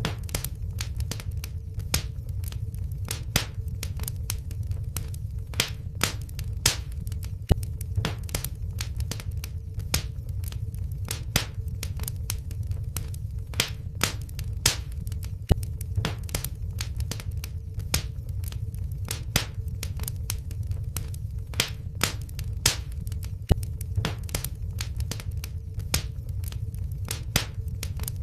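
Wood fire crackling in a fireplace: irregular sharp pops and snaps over a steady low rumble of the flames, with a faint steady hum underneath.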